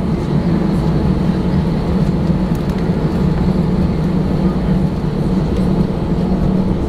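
Steady low drone and rush of cabin noise inside an Airbus A318 airliner on the ground, the even hum of the engines and air system with no change in pitch.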